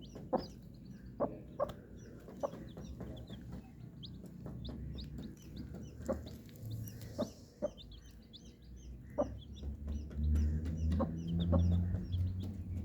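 Many chicks peeping in short, high notes while a hen clucks. A low hum swells near the end.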